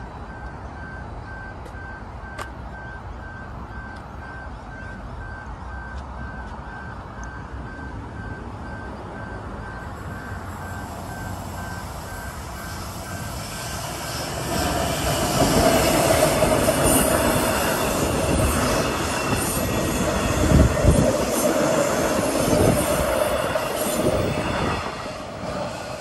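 A train approaching and running past. It rises to a loud rumble about fourteen seconds in, with a steady mid-pitched tone over the rumble, and falls away near the end.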